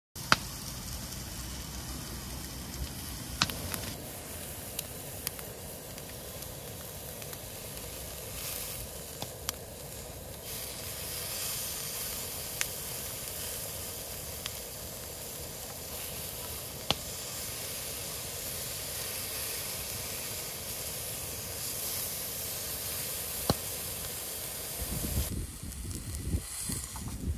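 Food sizzling in a frying pan: a steady frying hiss with occasional sharp pops. Near the end the sizzle falls away and a low, uneven rumble takes over.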